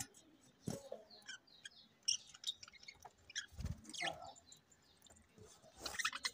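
Budgerigars chirping in short, scattered high calls, with a few brief knocks among them.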